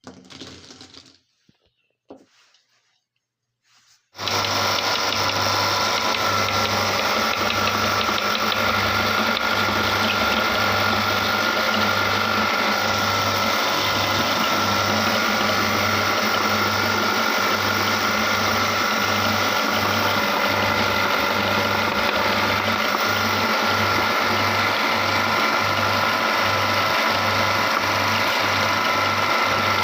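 Electric meat grinder switched on about four seconds in, its motor running steadily with a regularly pulsing hum as it grinds green chilies.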